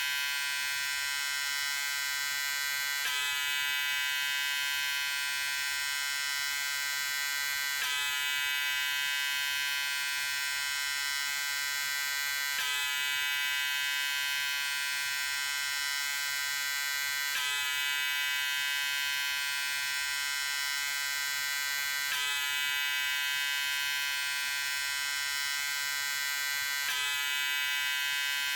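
Electric razor running steadily with a continuous buzz, and a faint click about every five seconds.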